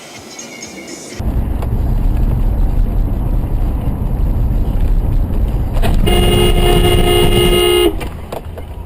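Loud low road and engine rumble that starts suddenly about a second in, then a car horn held for about two seconds before cutting off.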